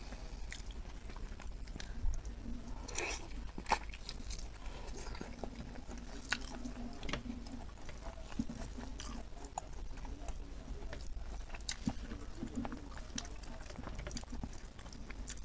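Close-miked chewing and biting of braised pork trotter and rice, eaten by hand: irregular wet mouth clicks and smacks.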